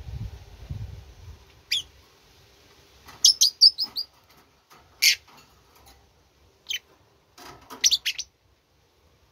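A bird chirping in short, sharp, high calls: a single chirp, then a quick run of about five notes, then scattered single chirps and a last quick cluster. Low rumbling in the first second.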